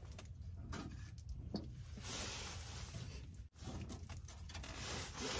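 Rain falling on a tent: a steady hiss with scattered light ticks, heavier from about two seconds in, broken by a brief dropout about three and a half seconds in.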